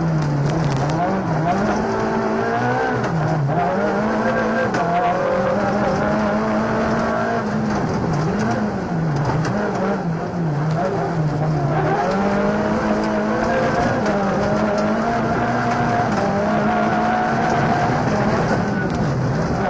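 Rally car engine heard from inside the cabin at full stage pace, its note climbing and dropping again and again with gear changes and lifts for corners, then held high for several seconds near the end.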